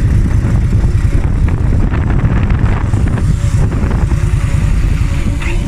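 Indian Scout 1133 cc V-twin motorcycle engine running, with a steady low rumble and scattered irregular clicks on top, the strange noise its owner is asking about.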